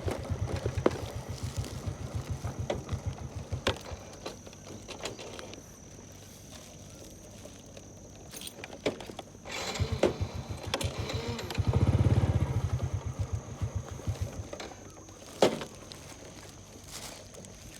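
Small engine chugging past, fading away over the first few seconds, then coming close again, loudest about twelve seconds in, and fading. A few sharp clicks are scattered through, one loud one near the end.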